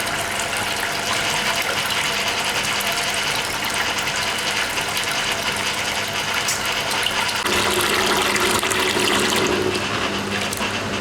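1980 Hoover Keymatic A3112 washing machine draining its rinse water: water rushing and gurgling out of the stainless steel drum as the drain pump runs. The sound shifts about seven and a half seconds in.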